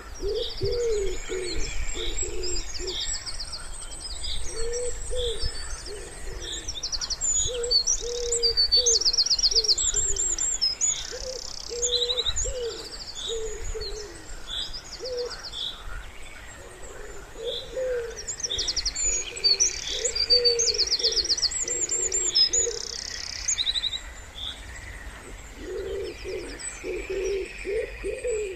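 Wood pigeon cooing in repeated low phrases with short pauses between them, while songbirds sing high, fast trills and chirps over it.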